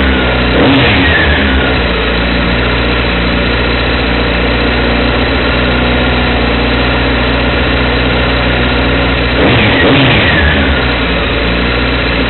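Motorcycle engine idling, revved twice: once just after the start and again about ten seconds in, the pitch falling back to idle each time.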